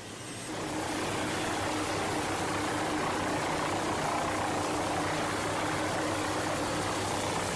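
Aircraft engine running steadily: a low hum under an even rush of noise, fading in over the first second.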